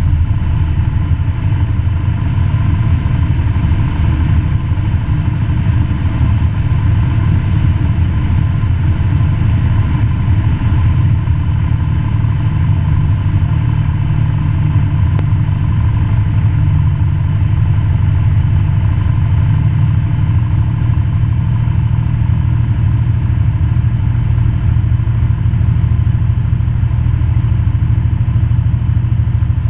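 Cessna 172 Skyhawk's piston engine and propeller droning steadily, heard from inside the cabin during the landing approach.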